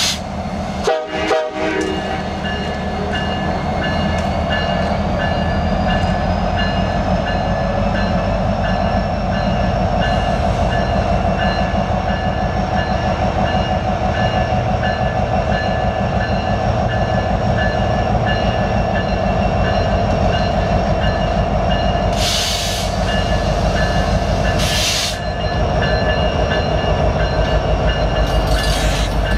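Union Pacific SD70ACe diesel-electric locomotive leading a double-stack freight train, passing at slow speed: a steady diesel rumble with a droning whine. Near the end there are two brief hisses.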